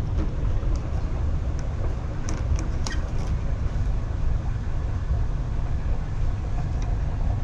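Steady low rumble, with a few light clicks between two and three seconds in.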